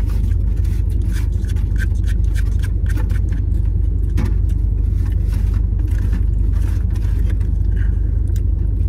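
Steady low rumble of a car, as heard from inside the cabin, with scattered small clicks and scrapes from eating out of a takeout container.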